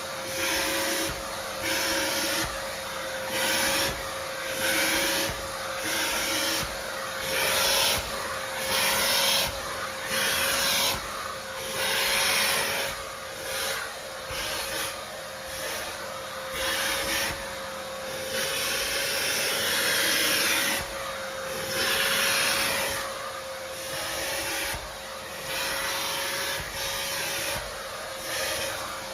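Household vacuum cleaner running with a steady motor whine, its suction noise swelling and falling back every second or two as the nozzle is pushed back and forth over the surface.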